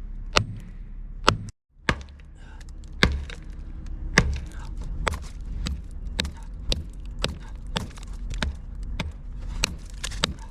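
Repeated sharp knocks, about two or three a second, over the low, steady running of an engine.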